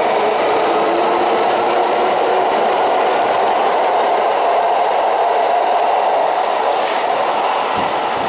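Electric commuter train running past the platform of an underground station, a steady, loud rush of wheels on rail and traction motors that eases slightly near the end.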